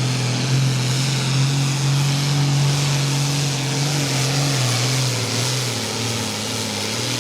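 Pro Farm class pulling tractor's diesel engine running loud and steady at high revs, with a strong low drone and a wide hiss over it, easing off a little past the middle.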